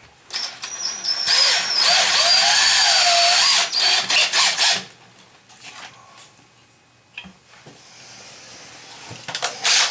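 Power drill running for a few seconds with a steady high whine, then in several short trigger bursts, and once more briefly near the end.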